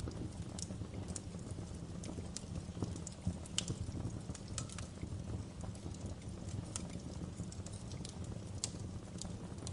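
Wood fire burning in a fireplace, crackling: irregular sharp pops and snaps, a few louder ones, over a steady low rumble of the flames.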